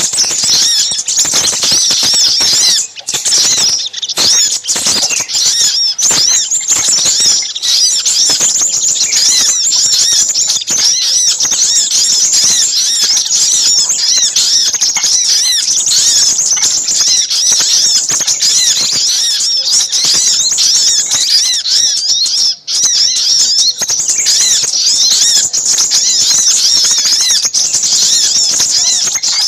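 Dense, non-stop chatter of small birds, with many high-pitched chirps and trills overlapping. It is a bird-lure (pikat) call mix of excited sogok ontong combined with crimson sunbird (sepah raja) calls, used to draw in small birds.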